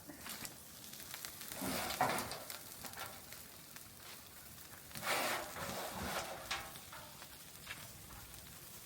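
Wood bonfire crackling and hissing, with scattered small pops and two louder swells of noise, about two and five seconds in.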